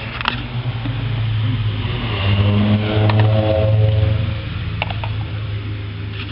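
A motor or engine running with a steady low hum that swells and rises slightly in pitch for a couple of seconds in the middle, with a few sharp clicks.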